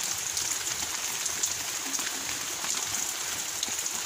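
Steady rain falling: a continuous hiss with scattered drops ticking.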